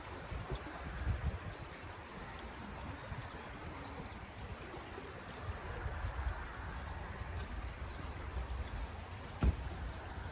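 Outdoor riverside ambience: a low, steady rumble with a small bird repeating short, high, falling chirps about once a second, and a single sharp knock near the end.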